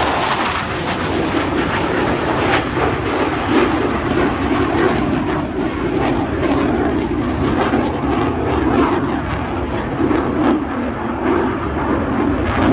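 Steady jet noise from F/A-18 fighter jets flying an airshow display.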